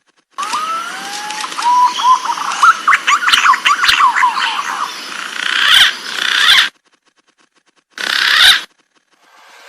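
Green pigeon (punai) calls: long whistled notes gliding upward, then a rapid flurry of short wavering whistles. Two short noisy bursts follow, with abrupt drop-outs to silence between them.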